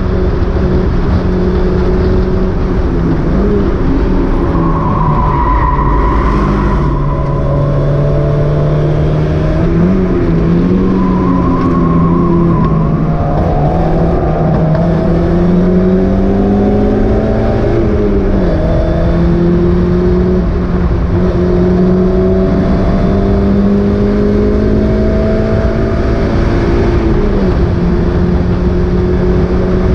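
Mazda MX-5 race car's four-cylinder engine running hard at racing speed, heard onboard. Its note holds mostly steady and dips and recovers several times, as with lifts, braking and gear changes.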